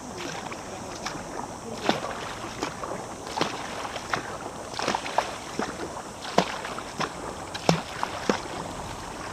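Kayak paddle strokes in the water: irregular sharp splashes and drips over a steady hiss.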